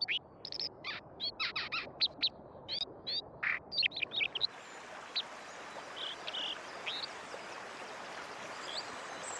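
Male white-throated dipper singing a fast, varied run of short, high, melodious notes, at first with the river noise filtered out. About four and a half seconds in, the rushing stream returns and the song carries faintly above it, its notes higher than the water's noise.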